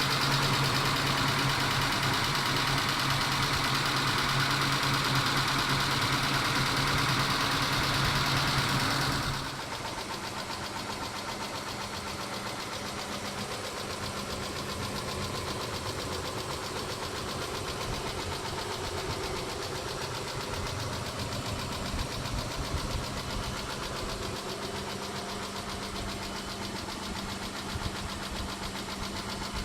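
Mitsubishi 6G72 V6 engine idling with a tapping that the owner puts down to the hydraulic lifters, though he doubts it may be them. About a third of the way in the sound drops abruptly to a quieter, lower running.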